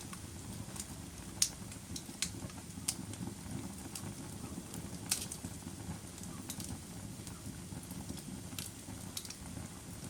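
Wood fire crackling in a fireplace: irregular sharp pops and snaps, the loudest about one and a half and five seconds in, over a low steady rumble of the flames.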